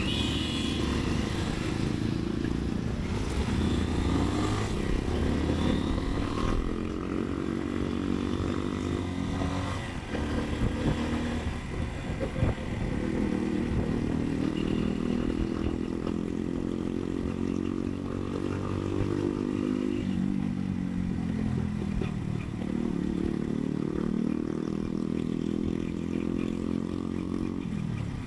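Motorcycle engine running under way, its pitch climbing as it accelerates and dropping back several times as it eases off or shifts. A few short knocks sound around the middle.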